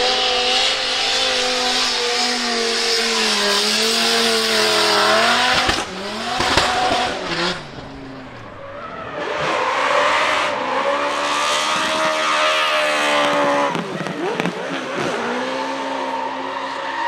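Drift car doing donuts: the engine is held high in the revs, its pitch wavering as the throttle is worked, over the steady hiss of spinning, squealing tyres. The revs drop briefly about six seconds in, then climb again, and dip once more near the end.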